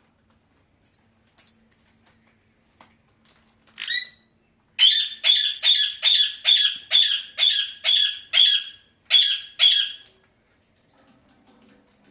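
A pet parakeet squawking: one rising call about four seconds in, then a run of about eleven loud, harsh screeches at roughly two a second, stopping about ten seconds in.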